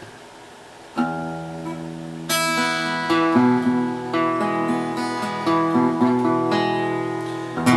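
Epiphone Hummingbird acoustic guitar starting a song: a chord rings out about a second in, then strummed chords follow at a steady pace.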